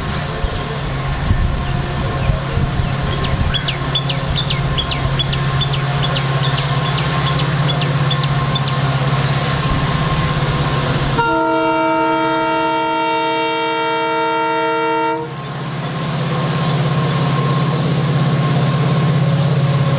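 An Indian Railways express train running past with a steady low rumble. It sounds its horn in one long multi-tone blast of about four seconds midway, and the rumble resumes after it. Before the horn comes a run of short high squeaks, about three a second.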